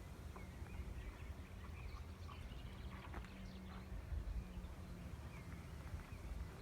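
Harley-Davidson Street Bob's V-twin with Kesstech ESM2 exhaust idling low and steady with its loping beat, while small birds chirp faintly.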